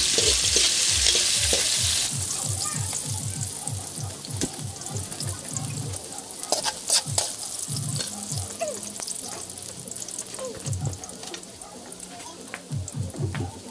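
Garlic, onion and ginger sizzling in hot oil in an aluminium wok, stirred with a metal spatula that clicks and scrapes against the pan. The sizzle is loudest for the first two seconds, just after the ginger goes in, then settles to a quieter frying.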